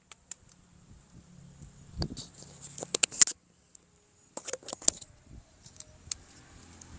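Plastic toy parts and packaging being handled during an unboxing: sharp clicks and light rattles in two clusters, about two to three seconds in and again around four and a half seconds, over faint rustling.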